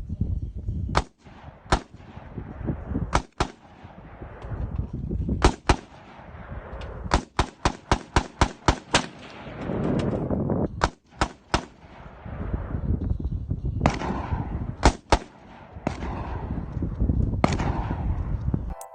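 A Volkswagen car engine revving up and dropping back several times, with many sharp cracks and pops from the exhaust, at times coming in quick runs of three or four a second.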